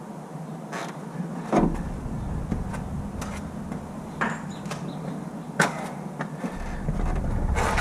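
Engine parts being handled during timing-chain work: a handful of separate sharp clicks and knocks a second or more apart, over a steady low hum.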